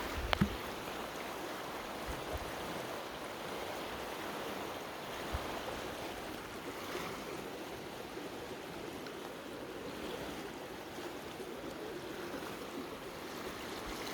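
Steady rush of creek water flowing over rocks, with a brief knock about half a second in.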